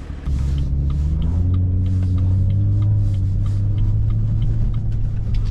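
BMW M2's turbocharged straight-six engine pulling away: it gets suddenly louder just after the start, its pitch climbs a little over the next two seconds, then it runs steadily.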